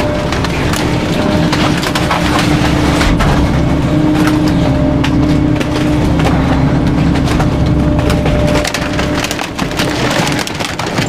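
Garbage truck's rear packer compacting bulky waste: many sharp cracks and snaps of items splintering and breaking under the packer blade, over a steady mechanical hum and low engine rumble.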